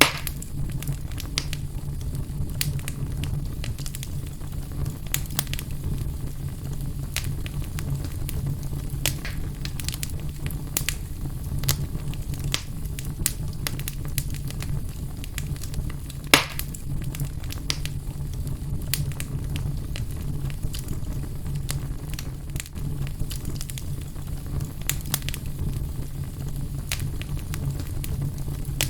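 Fire burning in a fireplace, crackling with frequent irregular sharp pops over a steady low rumble; one louder pop about halfway through.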